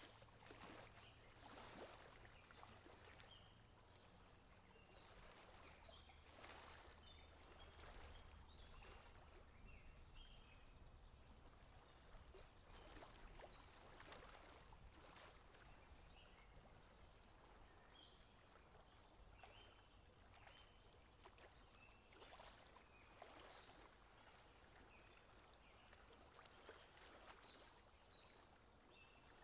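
Faint outdoor nature ambience: scattered short bird chirps over a soft hiss and a low hum, all very quiet.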